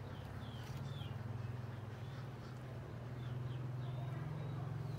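A steady low hum with a few short, high chirps of small birds over it.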